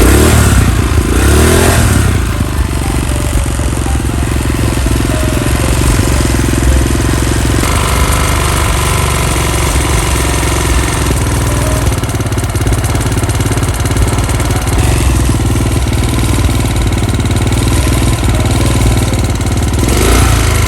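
Water-cooled 250cc quad bike engine running steadily, its pitch rising and falling briefly near the start and again near the end as the throttle is blipped.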